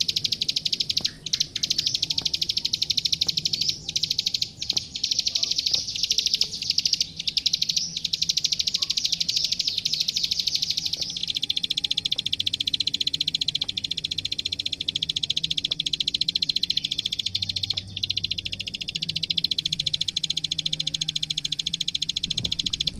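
A plain prinia (klik-klik, ciblek sawah) singing a rapid, continuous clicking trill without pause. It shifts slightly lower in pitch about halfway through.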